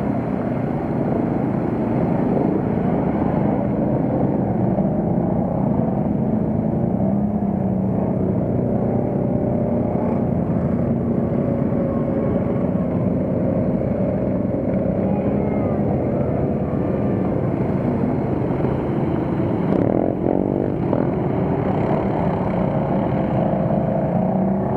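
A pack of quad bike (ATV) engines running and revving together at a race start, loud and steady, with many engine pitches overlapping.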